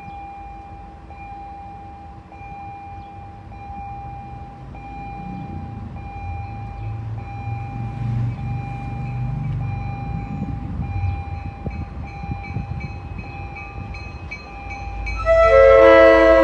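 Diesel commuter locomotive's steel cast bell ringing with a steady stroke about once a second, under a low engine rumble that builds as the train approaches. About fifteen seconds in, a loud multi-note air horn blast sounds.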